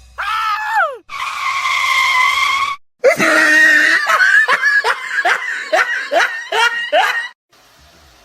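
A voice: a short falling cry, then a held high cry, then a run of about nine quick falling cries, about two a second, like laughing.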